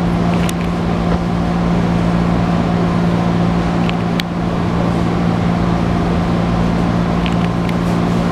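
Steady hum of a stopped 205 series 1000 commuter train's onboard equipment, heard inside the car, with a few light clicks, the sharpest about four seconds in.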